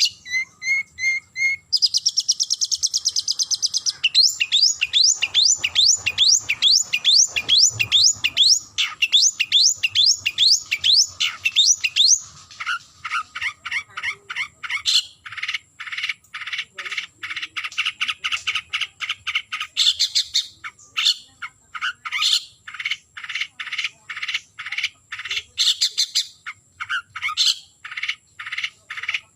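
Long-tailed shrike (cendet) singing a loud, fast run of repeated notes. It opens with a high rapid chatter, then a string of quick downward-slurred notes, then from about twelve seconds in a harsher series of repeated notes, about three a second.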